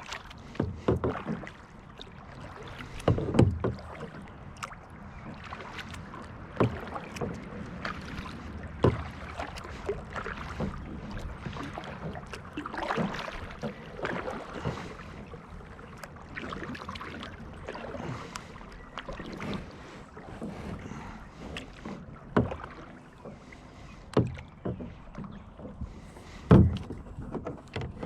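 Kayak paddling: the paddle dips and splashes in the water with irregular knocks and splashes against the hull. The loudest knocks come about three seconds in and again near the end.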